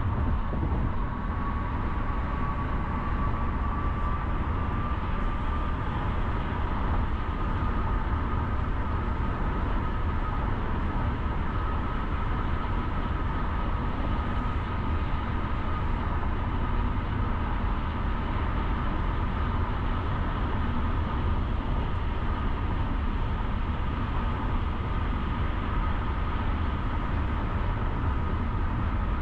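Car driving on city roads: a steady low rumble of road and engine noise, with a thin whine that rises slightly in pitch over the first dozen seconds and then holds steady.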